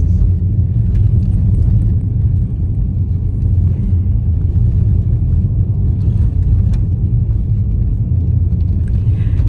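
Steady low rumble of a car driving on a snow-covered road, heard from inside the cabin: tyre and road noise with the engine running underneath.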